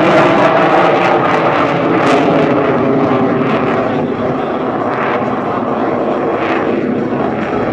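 Jet noise from a KAI T-50 Golden Eagle trainer's single General Electric F404 turbofan, a steady roar that slowly fades as the aircraft moves away.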